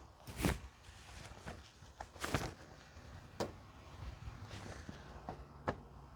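Faint footsteps and scattered handling noises, a few soft knocks and rustles, while a fabric car cover is being pulled over a car.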